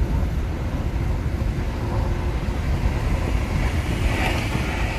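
Road and tyre noise inside a moving Nissan Leaf electric car: a steady low rumble with no engine note, and a brief rise in hiss about four seconds in.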